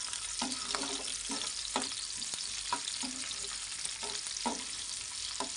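Chopped garlic and ginger sizzling as they fry in hot oil in a kadai, with a slotted spatula stirring and scraping against the pan in short, irregular strokes over the steady sizzle.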